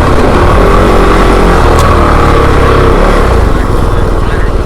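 Off-road motorcycle engine running under way, with a steady rush of noise over it; near the end the engine settles into a slower, even beat.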